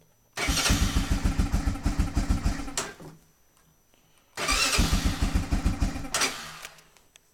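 A 1997 Honda FourTrax 300 ATV's air-cooled single-cylinder engine is cranked on the electric starter twice, each time for about two seconds, with the choke partly on. It turns over with an even pulsing beat and does not catch: a cold engine that has just stalled and is hard to restart.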